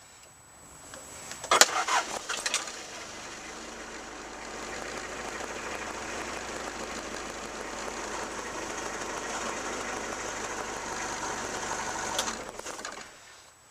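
Toyota 2L four-cylinder diesel engine started about a second and a half in, running steadily for about ten seconds and then shut off, to circulate and prime the fresh oil after an oil change.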